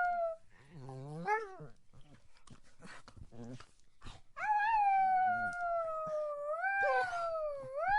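Dog howling: a howl trails off just after the start, a short rising whine follows about a second in, then a long howl begins about four seconds in, sliding slowly down in pitch and twice swooping back up.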